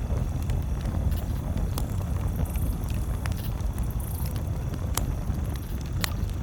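Campfire crackling, with a few sharp pops spread through, over a steady low rumble.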